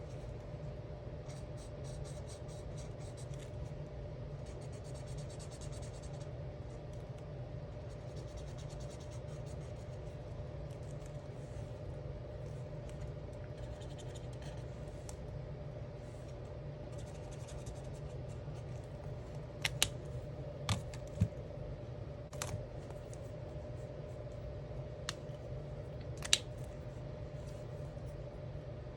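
Alcohol marker tips scratching across coloring-book paper in several short runs of quick back-and-forth strokes. In the second half come a handful of sharp clicks and taps. A steady low hum runs underneath.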